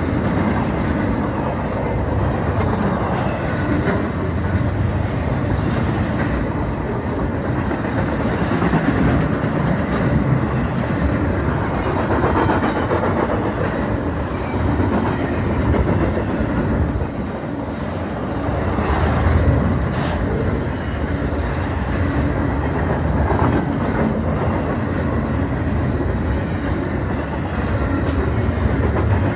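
Union Pacific freight train cars rolling past at track speed, a steady loud rail noise of steel wheels on rails.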